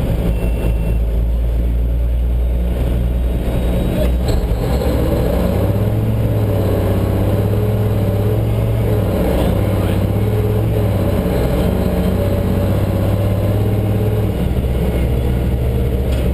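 Fire brush truck engine running, revving up about five seconds in and held at higher speed, with a short dip midway, then settling back down near the end.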